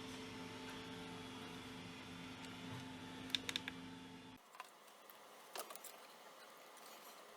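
A low, steady electrical hum that cuts off abruptly about four seconds in, with a few small sharp clicks, as of handling or switching, a little before and after the cut.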